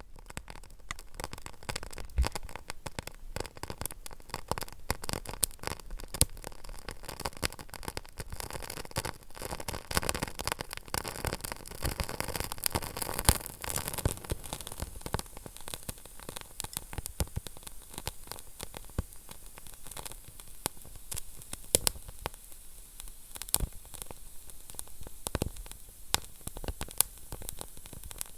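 Wood fire burning in a fireplace: a steady soft hiss with frequent irregular crackles and sharp pops.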